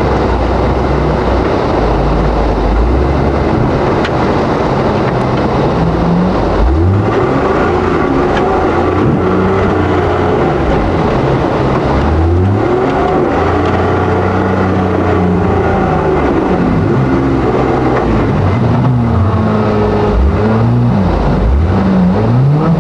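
Four-wheel-drive engine driving through mud and water: a heavy low rumble at first, then from about six seconds in the revs rise and fall again and again.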